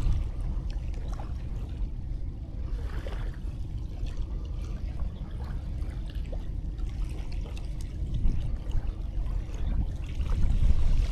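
Sea waves washing on a sandy shore, a steady rush with a heavy low rumble that swells louder near the end.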